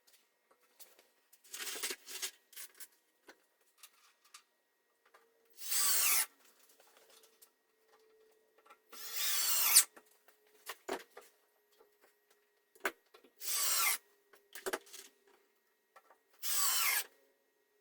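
A power tool run in five short bursts, about one every three to four seconds.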